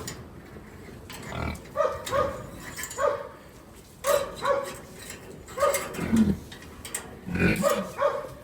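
Pigs grunting, many short grunts, often two in quick succession.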